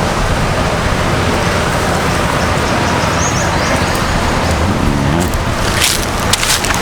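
Steady wind noise rumbling on the microphone over a wash of surf, with a few sharp crackles about six seconds in.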